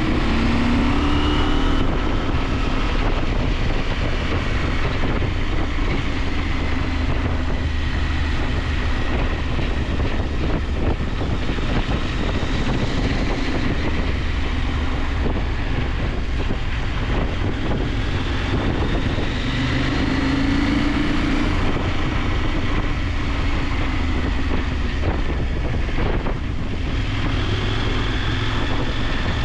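KTM 890 Adventure's parallel-twin engine pulling the bike along at road speed under a steady rush of wind and road noise. The engine pitch rises and falls with the throttle near the start and again about two-thirds of the way through.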